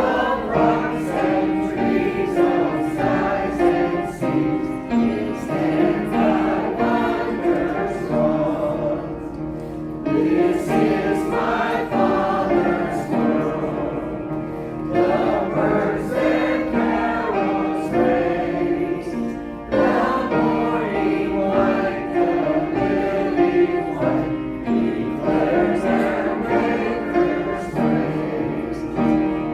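A choir singing a song together.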